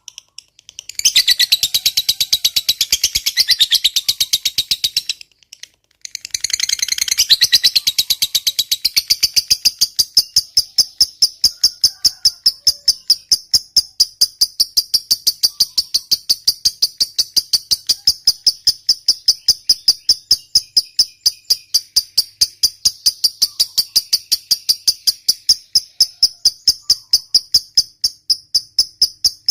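Lovebird calling: a burst of dense, high chatter, a pause of about a second, then a long ngekek trill, a rapid and even string of high-pitched notes that goes on unbroken for over twenty seconds.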